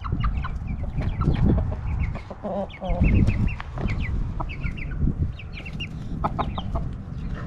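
Chickens clucking, with many short, high chirping calls scattered throughout over a low rumble.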